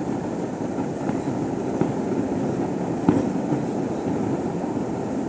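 Distant fireworks: a continuous low rumble of many bursts running together, with a few sharper pops, the loudest about three seconds in.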